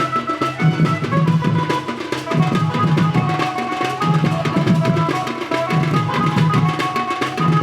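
Adivasi folk dance music: hand drums beating a fast, driving rhythm under a high, held melody line from a wind instrument.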